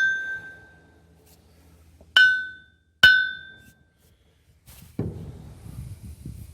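Hammer tapping the face of a large forged anvil: the ring of a strike fading at the start, then two more taps about a second apart, each with a clear, high, bell-like ring that dies away in about half a second, a lively ring that shows good rebound. Near the end, duller low handling and rustling noise.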